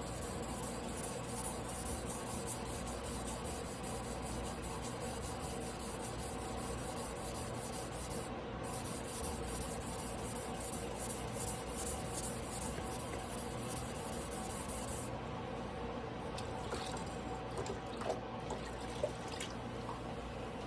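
A Tojiro Damascus 300 mm yanagiba blade being stroked back and forth on a wet whetstone, a steady wet rubbing and scraping. The stroking stops about 15 seconds in, followed by a few light clicks.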